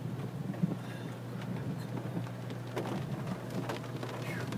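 Steady low hum inside a car with scattered light crackling and ticking clicks over a faint hiss.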